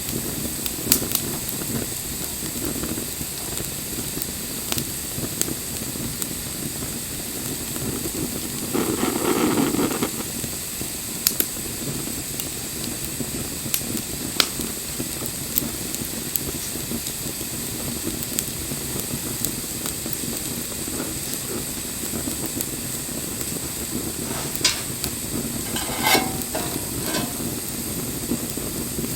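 Wood bonfire burning: a steady low rush of flames with scattered sharp crackles and pops. A louder rush lasts about a second, nine seconds in, and a quick run of pops comes near the end.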